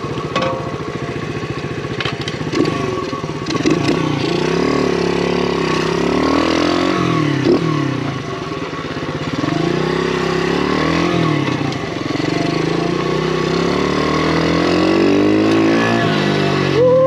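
Pit bike's small motorcycle engine running and being revved, its pitch rising and falling several times and climbing highest near the end.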